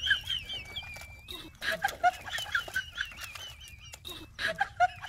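Birds calling: a high, wavering warble repeated over and over, with short clucking chirps in between. There are two sharp clicks, about two seconds in and near the end.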